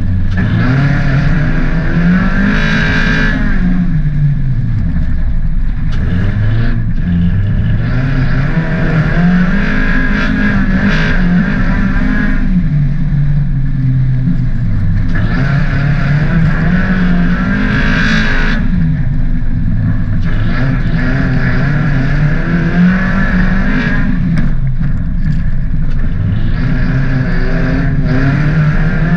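Mk3 VW Golf's 1.8-litre 20-valve four-cylinder engine racing on a dirt track, heard from inside the stripped cabin: it revs up hard, then drops back, over and over every few seconds as the car accelerates and lifts.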